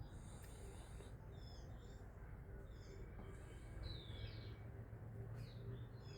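Faint, high-pitched chirps of small birds, several short calls and one falling call about four seconds in, over a steady low rumble.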